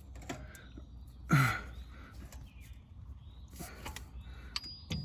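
A man's short grunt, falling in pitch, about a second and a half in, over a low steady hum, followed near the end by a few faint metallic clicks as a shock absorber and its bolt are worked into place.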